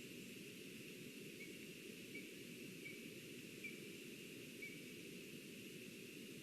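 Faint, steady outdoor forest ambience picked up by a nest-camera microphone, with low rumble and hiss, and a distant bird giving a short call five times, a little under a second apart.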